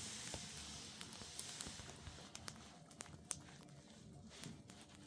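Faint, scattered clicks and taps of cockatiels pecking at and crunching popcorn.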